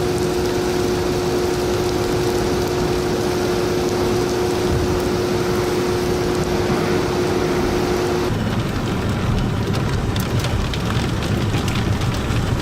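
Heavy rain and storm wind making a loud, steady rush. A steady hum sits over it until about two-thirds of the way in, then cuts off abruptly. After that come rain noise and scattered sharp ticks.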